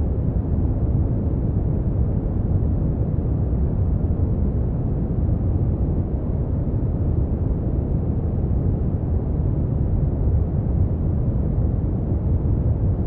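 Brown noise: a steady, deep rushing hiss, strongest in the bass and with almost no treble, unchanging in level.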